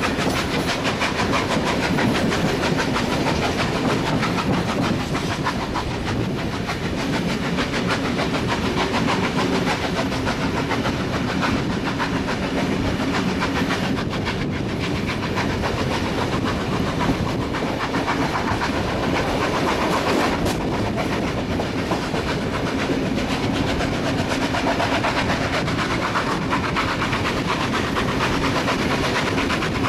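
Steam-hauled heritage train running along the line, heard from a carriage window: the steady noise of the moving train with wheels clicking over the rails.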